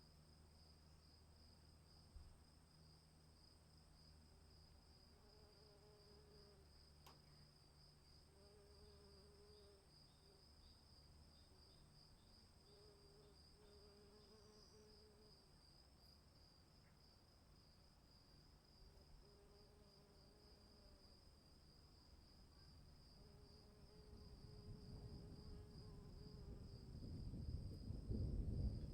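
Faint insects chirring in a steady, fast high-pitched trill, with short, evenly repeated low tones beneath. Over the last few seconds a low rushing noise swells and grows much louder.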